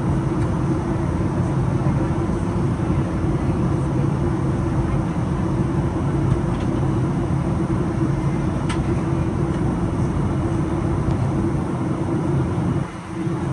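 Steady cabin drone of a Boeing 737-800 heard from a forward seat: engine and airflow noise with a low hum, dipping briefly near the end.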